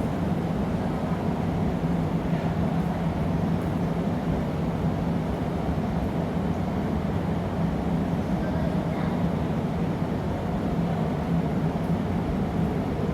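Steady low roar of a glassblowing studio's gas-fired furnace and glory hole, with a constant hum underneath.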